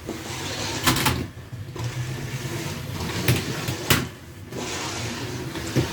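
Small electric motors of Lego combat robots whirring steadily. Sharp plastic clacks of robots striking each other come about a second in, twice between three and four seconds in, and again near the end.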